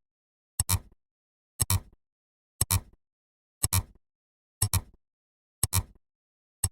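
A sharp double click repeating evenly about once a second, each click a quick pair of strokes with a low thud under it, like a tick-tock sound effect.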